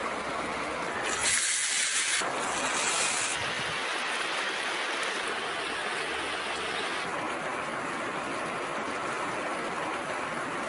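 Shredded-potato nests and eggs frying in hot oil in a large steel pan over a wood fire, a steady sizzle. About a second in, the sizzle turns louder and sharper for roughly two seconds.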